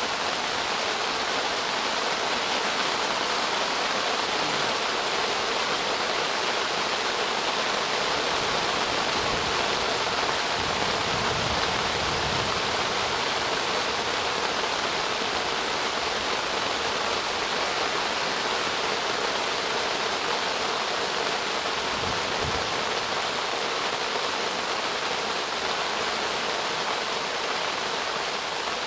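Steady heavy rain of a thunderstorm, an even hiss with no let-up.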